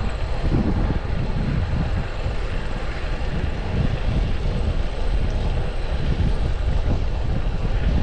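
Wind rushing over the microphone while riding a road bike, a steady noise with uneven low gusts of buffeting.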